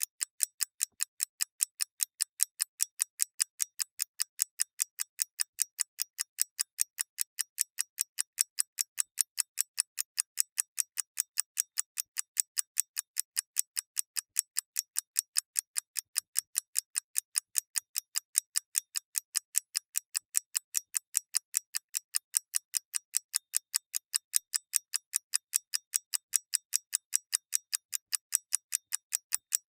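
Mechanical clock ticking steadily, about three crisp, light ticks a second, evenly spaced and unchanging.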